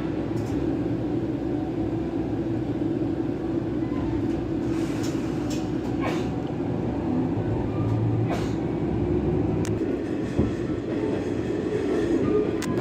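Akechi Railway diesel railcar running along the line: a steady rumble with occasional short clicks from the wheels and car.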